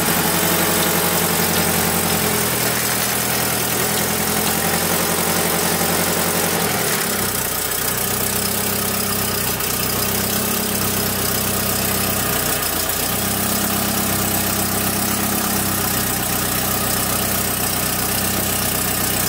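Honda H22A 2.2-litre DOHC VTEC inline-four engine idling steadily at around 1000 rpm during a first test run after an engine swap, with its cam timing still about one tooth out by the owner's reckoning.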